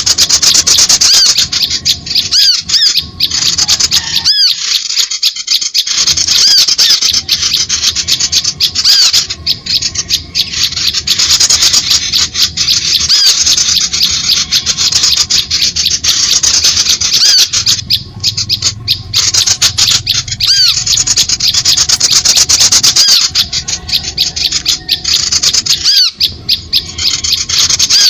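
Dense, loud chattering of small songbirds, rapid high chirps and harsh rasping calls overlapping without a break. This is a bird-lure recording (suara pikat) made to draw small birds to lime sticks.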